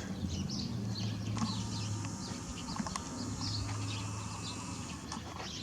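Small birds chirping in short, scattered calls over a low steady hum.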